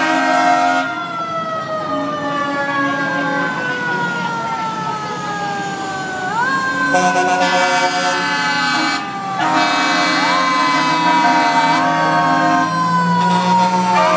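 A siren winding slowly down in pitch and pushed back up several times, with steady horn blasts starting and stopping over it.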